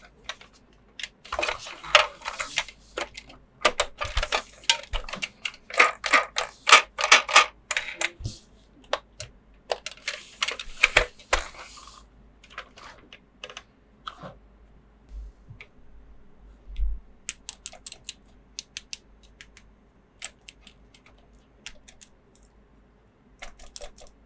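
A plastic toy playset and its packaging being handled, with dense crackling and clicking for about the first half, then only scattered light clicks.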